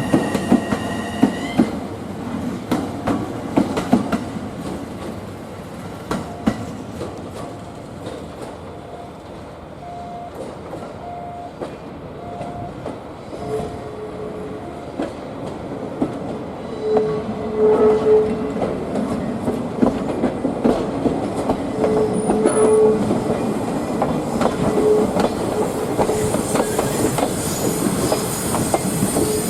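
Slow-moving diesel shunting locomotive (DE11) with passenger coaches: wheels clicking over rail joints and intermittent short wheel squeals. A horn blast cuts off about a second in.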